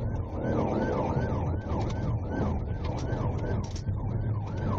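Police car siren in rapid yelp mode, its pitch sweeping up and down about three times a second, over the low rumble of the pursuing car's engine and tyres.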